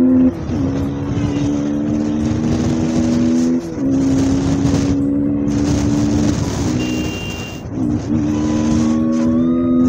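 KTM Duke's single-cylinder engine pulling under throttle. Its pitch creeps upward and drops back briefly about four times, over steady wind and road noise.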